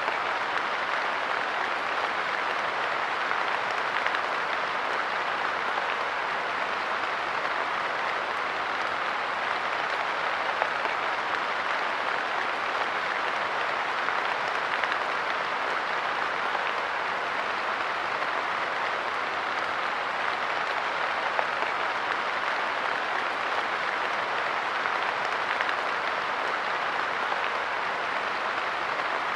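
Light rain falling steadily on a park bench: a dense, even patter of drops with occasional slightly louder ticks.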